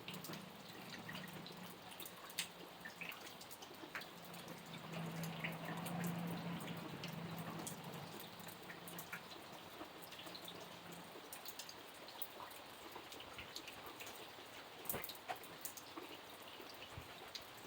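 Rain falling steadily, with many separate drops dripping and ticking on a surface. A low hum underneath swells a little around six seconds in and fades out about eleven seconds in.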